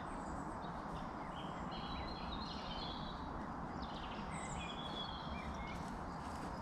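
Birds singing in short scattered phrases and chirps over a steady low background rumble.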